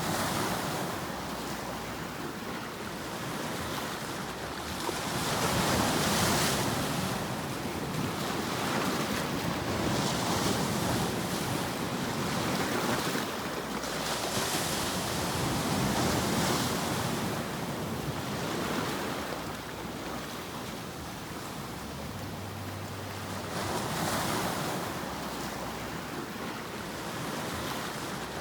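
Continuous white-noise sleep sound: a rushing hiss across the whole range that swells and ebbs every few seconds, with the steady surging of surf.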